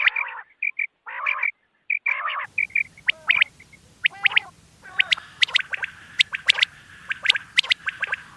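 Recorded quail calls made for hunting playback: clusters of short, sharp repeated call notes. About two and a half seconds in, the recording changes to one with a steady background hiss, and a denser run of sharp, high calls follows.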